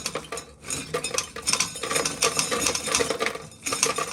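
Dry corn kernels being shelled off a full ear and dropping into a bucket as a dense run of clicks and rattles, with a short pause near the end.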